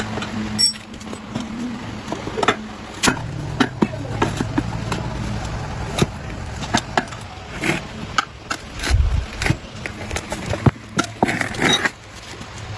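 A small motorcycle engine running steadily, with many sharp metallic clicks and knocks over it. The engine's low hum shifts lower about three seconds in.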